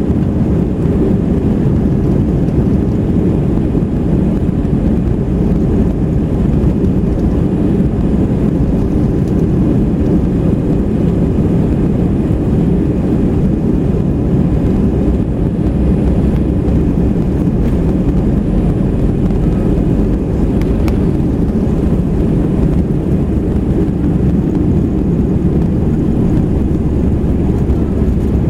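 Airbus A319 airliner heard from inside the cabin during take-off: a loud, steady, low rumble of engines and airflow that holds even throughout.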